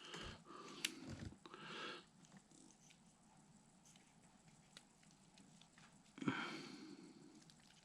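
Faint handling noises: a few light clicks and soft rustles as small RC-truck parts are moved about, with a short rustle about six seconds in.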